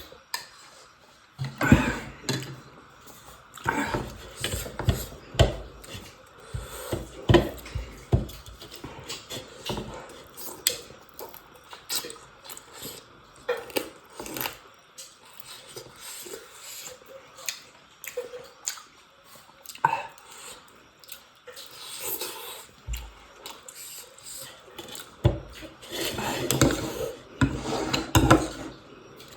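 Eating at the table: chewing and biting, with dishes and cutlery clinking and scraping in short, irregular knocks.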